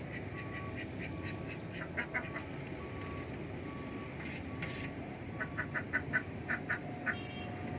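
Domestic ducks quacking as they feed: runs of short calls, coming thicker and louder in the second half, over a steady low background noise.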